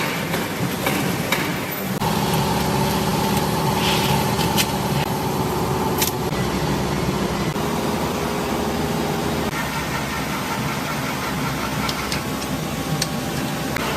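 Factory machinery running with a steady hum whose pitch changes a few times, broken by several sharp clicks.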